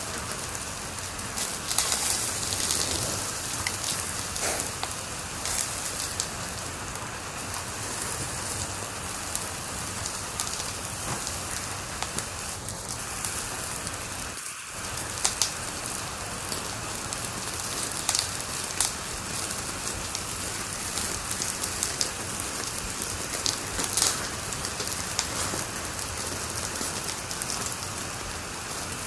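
Wood fire crackling steadily, with frequent sharp pops and snaps over a constant hiss; the sound briefly dips about halfway through.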